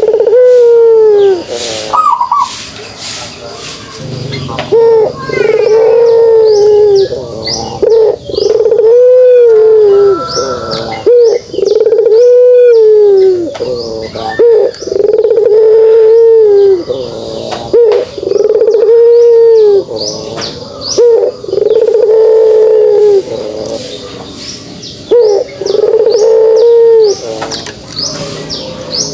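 Puter pelung, a Barbary dove kept for its voice, cooing the drawn-out 'kugeruk' call over and over. Each coo is a low note that rises and falls over about a second and comes roughly every two seconds.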